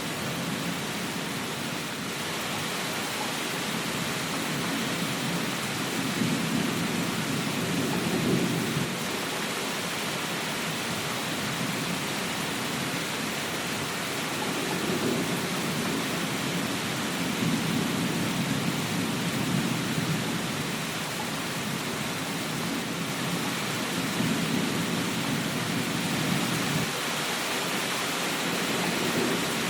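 Steady rain hiss, with low rumbles of thunder that swell and fade about three times.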